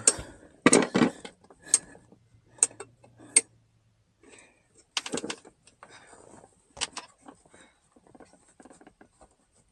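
Scattered clicks and light clatter of hard plastic and metal parts being handled: the console lid, its hinge springs and rod. There are several sharp knocks in the first few seconds, then a few more with quiet gaps between.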